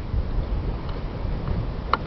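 Wind buffeting the microphone, an uneven low rumble that eases off, with one short high chirp near the end.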